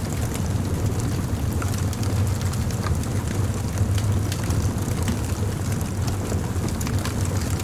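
Wood campfire burning, with frequent small sharp crackles and pops over a steady low rumble.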